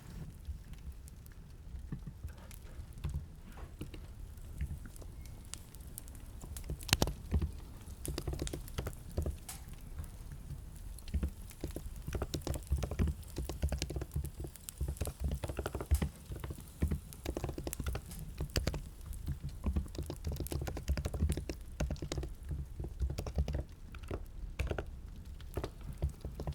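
Typing on a computer keyboard: a few scattered keystrokes at first, then quick, uneven runs of key clicks with a dull thud under each from about eight seconds in.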